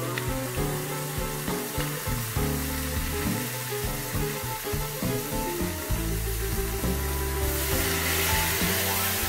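Onions, carrots, tomatoes and lamb shanks sizzling in a hot stainless steel pot under background music. About seven and a half seconds in, liquid poured into the pot sets off a much louder hiss.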